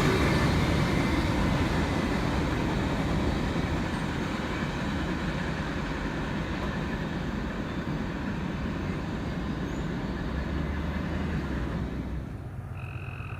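A passing train rumbling away, its wheel-and-rail noise slowly fading as it recedes. A short steady tone sounds near the end.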